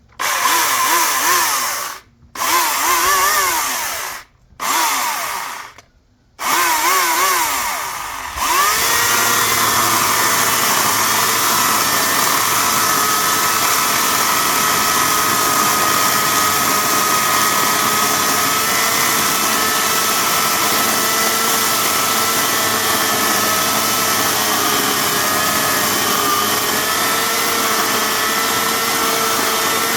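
Hawksmoor 2200 W electric chainsaw's motor and chain triggered in four short bursts of about two seconds each, winding up in pitch each time, then held running steadily from about eight seconds in.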